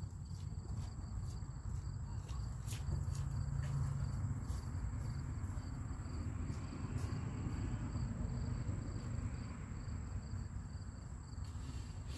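Outdoor background: a low steady rumble, with a faint high-pitched insect trill and light ticks about twice a second.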